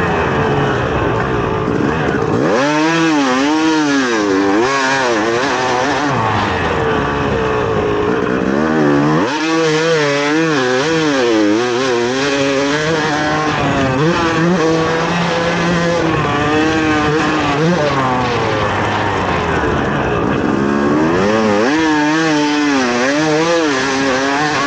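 Dirt bike engine revving hard, its pitch rising and falling in quick repeated swells as the throttle is worked, with steadier stretches in between.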